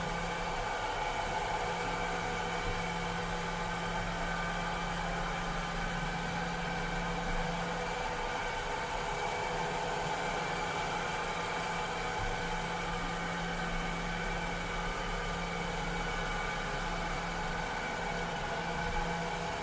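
Cleaning robot running steadily: a continuous motor hum and whine, several steady tones over an airy rushing noise, with no change in pace.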